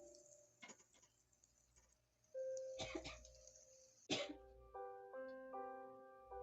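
Soft, sparse piano background music, single notes and small chords that fade away. A few brief noisy sounds fall between the notes: a short one near the start, a longer one about three seconds in, and a sharp one just after.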